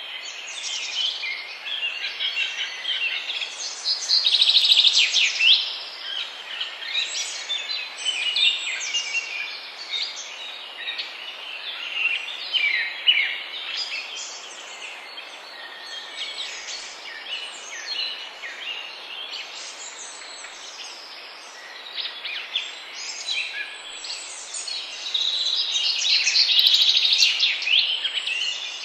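A chorus of several songbirds chirping and trilling over one another, busiest and loudest twice, about four seconds in and again near the end, over a faint steady hiss.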